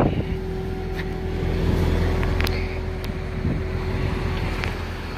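Corvette Z06's supercharged LT4 V8 idling steadily with a low rumble, with a few faint clicks over it.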